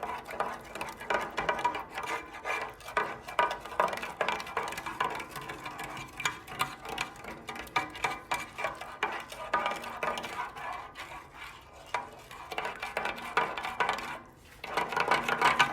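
A whisk clinking rapidly and unevenly against a pan as brown sugar is whisked into a sauce to break up the clumps, with a brief pause about fourteen seconds in.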